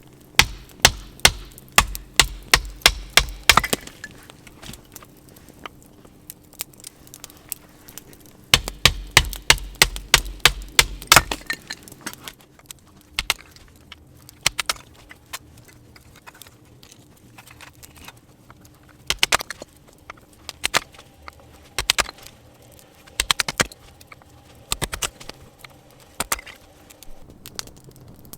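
Firewood being chopped or split: two runs of about ten quick knocks, roughly three a second, then scattered sharp cracks of wood.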